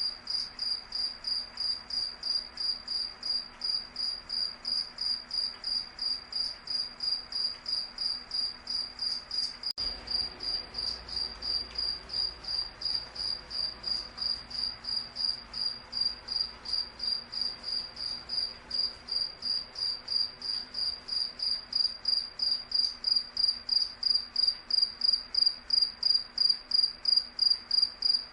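A cricket chirping in a steady, even rhythm of about two and a half high-pitched chirps a second, growing louder in the last third.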